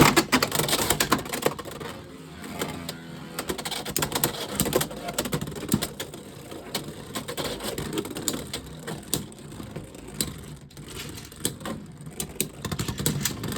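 Two Beyblade X spinning tops, Unicorn Sting and Night Lance, launched into a plastic stadium, with a sharp clack at the start. They then spin, rattle and collide against each other and the stadium with rapid, irregular clicks and scrapes.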